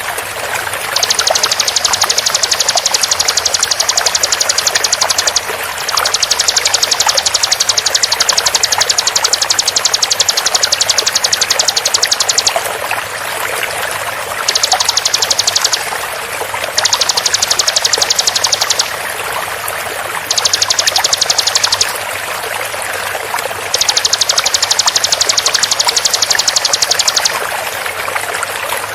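Bar-winged prinia (ciblek) singing its fast, tightly packed rapid-fire song in six bursts of one to six seconds, each a dense run of high repeated notes, over a steady rush of flowing water.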